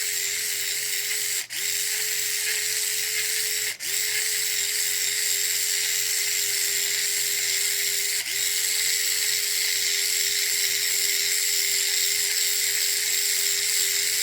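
Small handheld electric resin mixer running at one steady pitch while it stirs epoxy resin and hardener in a cup. It dips briefly three times, about a second and a half in, near four seconds and around eight seconds.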